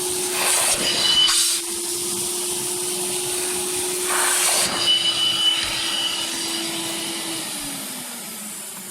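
Zelmer Vodník 619.6 wet vacuum cleaner running steadily while shampooing upholstery, with two louder surges of suction hiss and a thin whistle, about a second in and about four seconds in. Near the end the motor winds down, its pitch falling.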